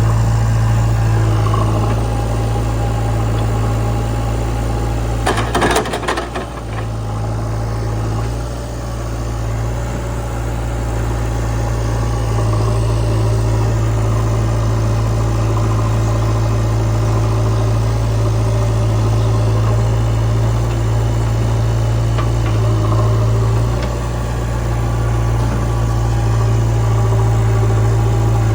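Heavy diesel machinery engine running steadily near idle, with a brief rattling clatter about six seconds in.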